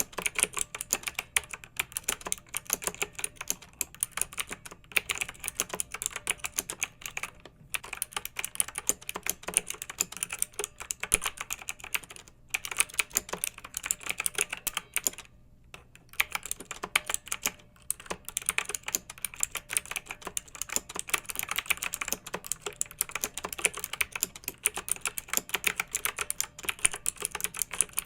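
Fast, continuous typing on a clicky mechanical keyboard: a dense run of sharp keystroke clicks, broken by a few brief pauses, the longest about halfway through.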